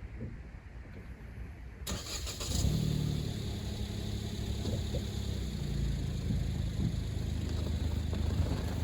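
Car engine starting about two seconds in, then idling steadily.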